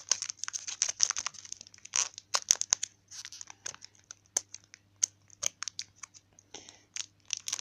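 Foil wrapper of a Pokémon trading card booster pack crinkling and tearing as it is opened by hand, in quick irregular crackles.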